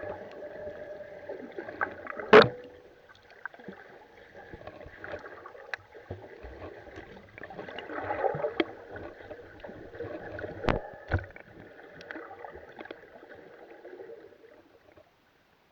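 Kayak paddling: water sloshing and splashing against paddle and hull, with a few sharp knocks about two seconds in and twice near eleven seconds. The sound stops shortly before the end.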